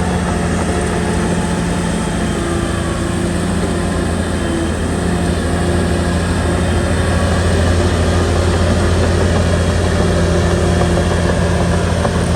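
Shantui bulldozer's diesel engine running steadily under a deep hum, swelling a little about two-thirds of the way through.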